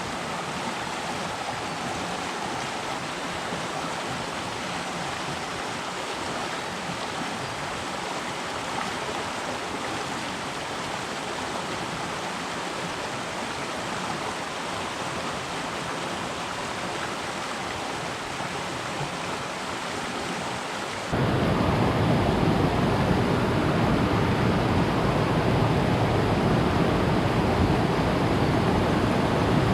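Steady rush of flowing stream water. About 21 s in it cuts abruptly to a louder, deeper rush.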